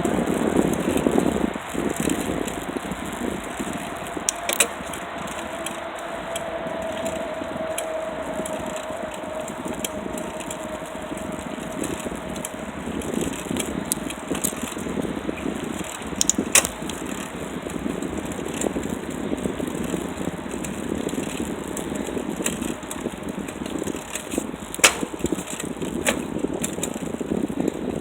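Bicycle riding: a steady rush of tyre and air noise with a few sharp rattles over bumps. A faint tone slowly falls in pitch during the first dozen seconds or so.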